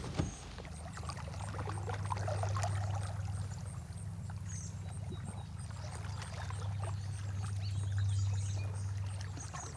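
Kayak paddle strokes dipping into the water, with splashing and dripping, over a steady low hum.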